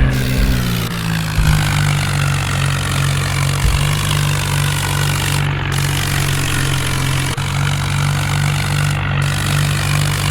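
New Holland tractor's diesel engine running steadily; its pitch drops in the first second or so and then holds even.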